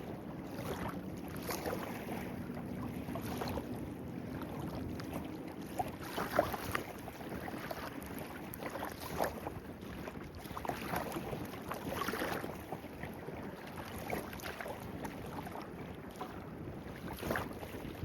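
Clear, shallow stream running over stones, a steady babbling with many small irregular splashes and gurgles.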